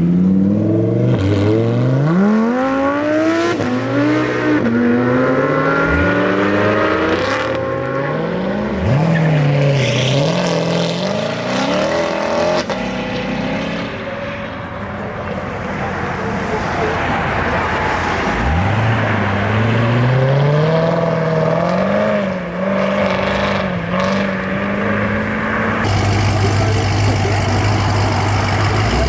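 Car engines accelerating hard past the listener, revving up and dropping back in pitch several times as the cars shift through the gears, then a lower steady engine note near the end.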